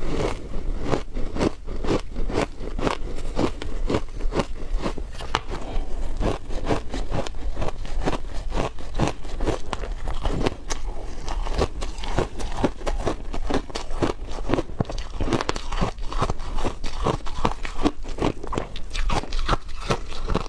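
Close-miked biting and crunching of frozen matcha ice, a steady run of crisp crunches, a few each second.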